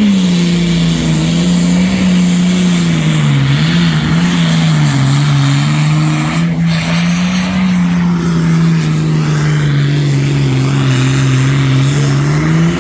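Super Farm class pulling tractor with a 640-cubic-inch engine, running flat out under load down the track. Its pitch sags and wavers as the load builds, then climbs a little near the end.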